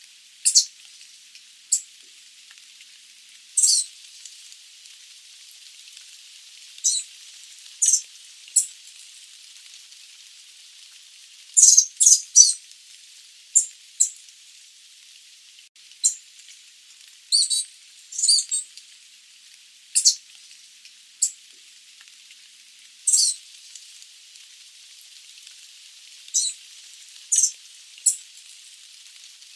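Sooty babbler giving short, high-pitched call notes at irregular intervals, sometimes two or three in quick succession, over a steady faint hiss.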